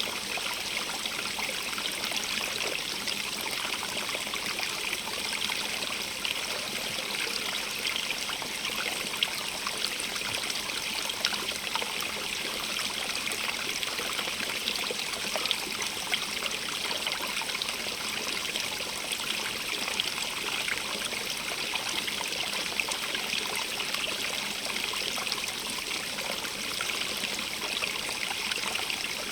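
Running water of a stream: a steady, even rush with many small splashes and trickles over stones.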